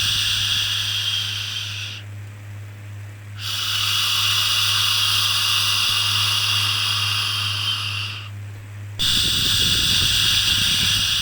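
Long 'shhh' shushing sounds for soothing a baby, repeated one after another with two short breaks, about two seconds in and about eight seconds in, over a steady low hum.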